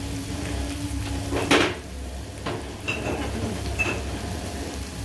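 Chicken strips frying in oil with a steady sizzle. A sharp knock of a utensil against a pan or bowl comes about a second and a half in, followed by two light clinks.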